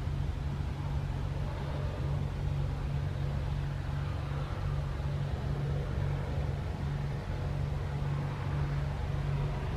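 Aircraft engine running steadily: a constant low hum over an even rushing noise, with no change in pitch or level.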